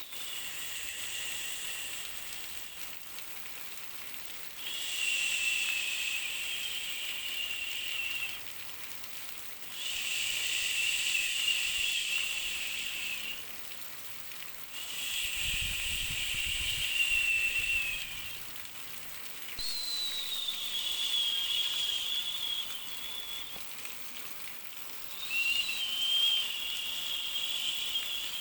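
Soothing baby white noise: a drawn-out hissing shush repeated about every five seconds, each one lasting three to four seconds, over a faint steady hiss.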